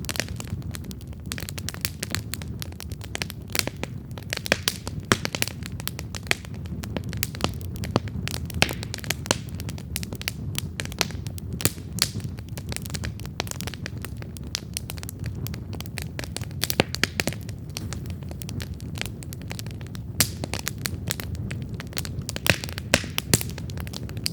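Wood campfire burning with a steady low rumble of flame and frequent sharp crackles and pops from the burning wood.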